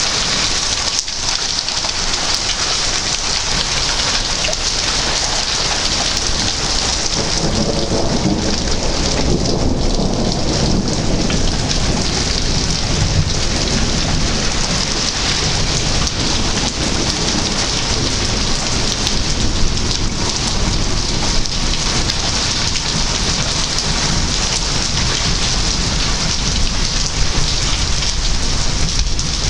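Heavy thunderstorm rain falling steadily in a dense hiss. A low rumble of thunder rolls in about a quarter of the way through and carries on under the rain.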